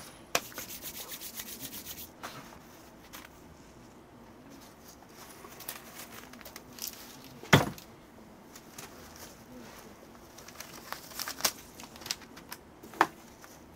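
Hands handling small objects while lots are drawn for a rice-and-sesame divination: soft rubbing and rustling, a quick run of light ticks at the start, scattered clicks and one sharp knock about halfway through.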